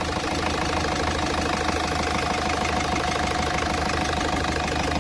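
Ford Figo engine idling steadily on its first run after a full overhaul, held at idle for a sound check.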